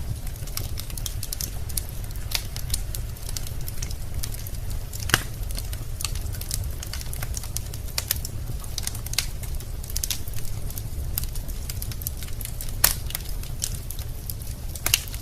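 Wood fire in a fireplace crackling, with irregular sharp pops and snaps, a few louder ones, over a steady low rumble of the flames.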